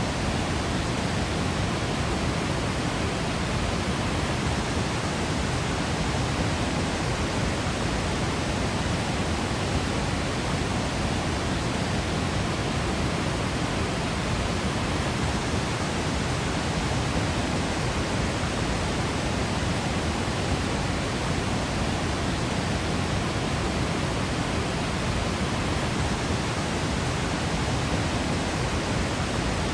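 Waterfall: falling water rushing in a steady, unchanging wash of noise that covers deep lows through high hiss.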